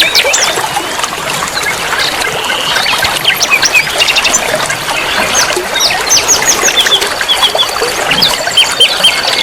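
Many small songbirds chirping and twittering in quick, overlapping short notes over a steady trickle of running water; a fast high trill comes in about seven seconds in.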